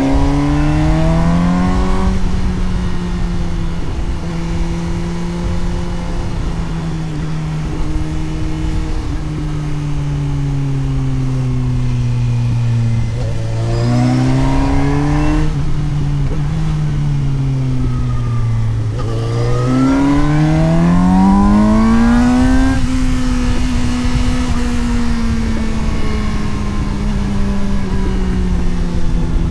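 Suzuki GSX-S750 inline-four motorcycle engine heard from onboard while riding. The revs rise sharply at the start, ease off slowly, rise again twice, with the longest climb about two-thirds of the way in, then hold steady.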